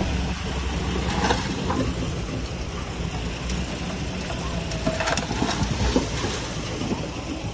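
Diesel engine of a small tracked bulldozer running steadily, with metal clanks and squeaks from its working gear and tracks, loudest about five seconds in.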